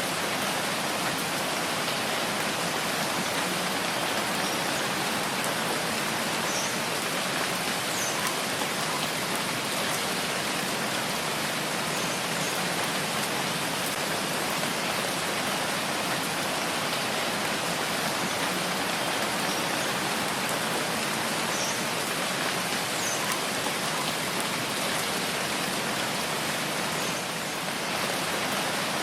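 Steady rain: an even, continuous wash of falling water with a few faint individual drops standing out.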